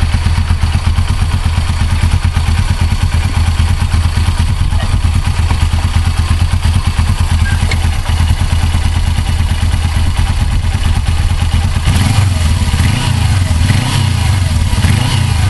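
Suzuki GS500E's air-cooled parallel-twin engine idling with an even, steady beat, holding its idle steadily. The low note turns a little less even about twelve seconds in.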